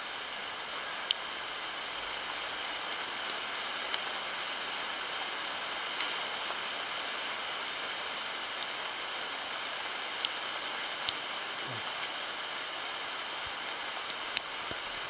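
Thunderstorm rain falling through the forest canopy and undergrowth: a steady hiss with a few sharp ticks of drops striking close by.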